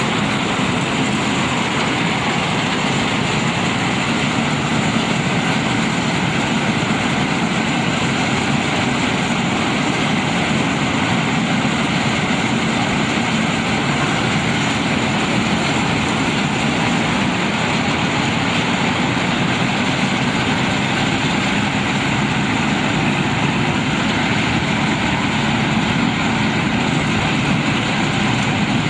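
Combine harvester running: a loud, even machine drone that holds steady with no change in pitch.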